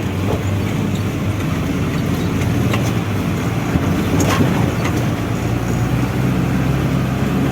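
Truck on the move: the engine runs steadily under a constant road rumble, with a few faint rattles.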